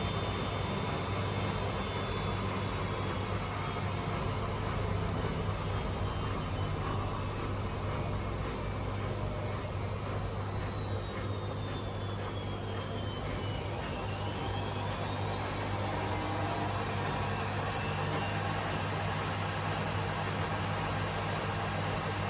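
Two Hotpoint Aquarius washing machines (WMA37 and WMA48) spinning together: a steady drum-and-motor rush with a low hum. A high motor whine falls slowly for about fourteen seconds as one machine's spin speed drops, then rises again as it winds back up.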